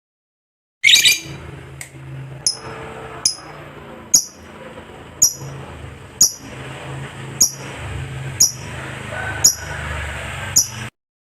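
Lovebird giving one loud harsh call about a second in, then single short high chirps roughly once a second over a low steady hum, cutting off abruptly near the end.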